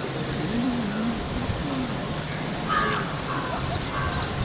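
A bird giving a few short, harsh calls in the second half, over steady background noise.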